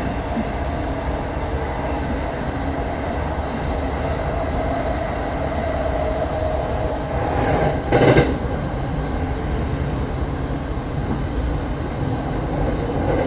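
Steady rumbling running noise of a train on rails, with one short, louder rush of noise about eight seconds in.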